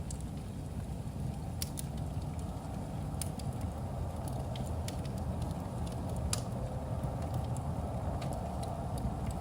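Wood fire burning in a fireplace: a steady low rumble with irregular sharp crackles and pops, about ten of them, the strongest about two-thirds of the way through.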